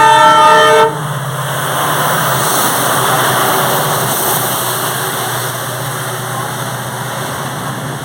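A freight train's locomotive horn sounding a chord of several steady tones, which cuts off about a second in. After it comes the steady noise of the train's wagons rolling past on the track, slowly fading.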